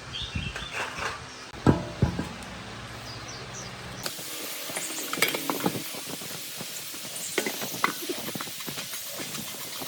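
Hand work on metal parts: a few sharp knocks and clinks over a low steady hum, then, after a cut about four seconds in, a hissing scrubbing sound with many small clicks and scrapes.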